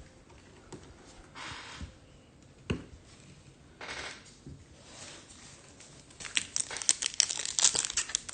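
Foil trading-card pack wrapper being torn open and crinkled: a few soft rustles and a click, then a dense, louder run of crinkling from about six seconds in.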